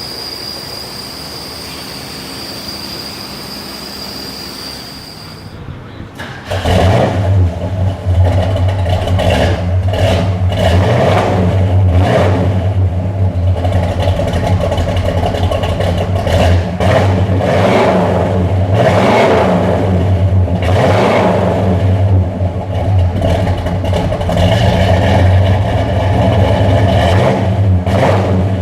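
For the first five seconds or so, a steady hiss with a thin high whine. Then a 1970 Pontiac GTO's V8 comes in loud through its new custom dual exhaust, revved over and over with a surge every couple of seconds.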